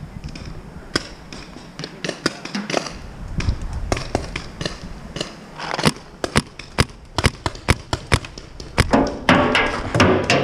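Paintball markers firing: a string of sharp pops at irregular intervals, coming faster, about two a second, in the second half.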